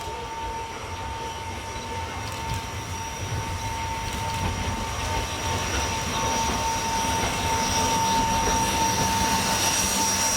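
A train rolling on the track, growing slowly louder as it comes nearer, with a steady high squeal from the wheels over a low rumble.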